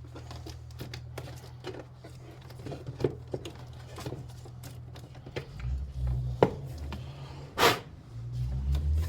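Scattered light clicks and knocks of a plastic car battery box and its retaining clip being handled and pushed into place, with a sharper click about six seconds in and a louder, brief scraping burst about a second later. A low steady hum runs underneath.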